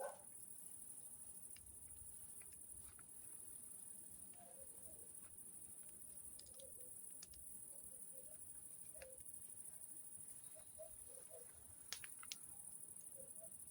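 Faint, steady high-pitched trill of crickets, with a few scattered sharp clicks and pops, the sharpest about twelve seconds in, from a campfire burning on grass.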